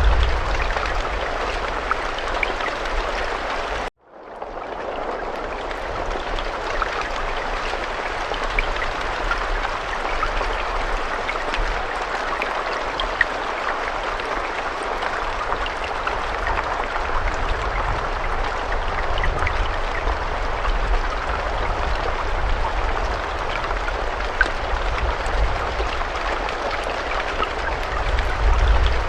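Steady rain, a dense patter of drops with a low rumble underneath. About four seconds in it cuts out almost completely for a split second and fades back up.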